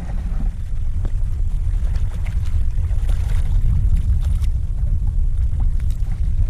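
Wind buffeting the microphone in a steady low rumble that flutters in loudness, with a few faint light taps and splashes over it.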